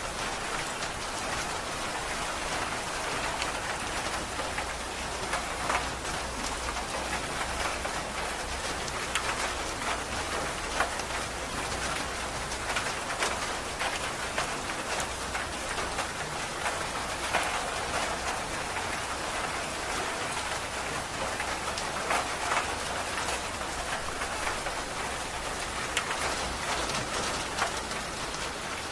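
Steady rain falling, a dense even hiss with many individual drops ticking on a hard surface.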